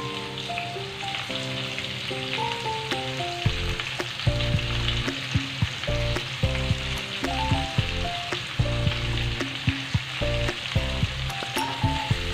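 Bottle gourd pieces sizzling in hot oil in a wok, under background music with a stepping melody and a bass line. A few clicks of a spatula come near the end as stirring begins.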